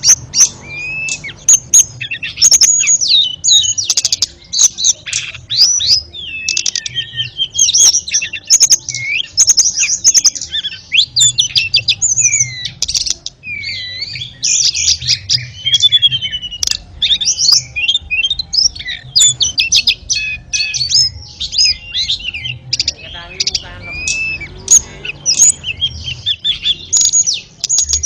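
Tledekan songbird singing a fast, continuous run of varied high chirps, sweeping whistles and trills, as used in a masteran song-training recording for cage birds.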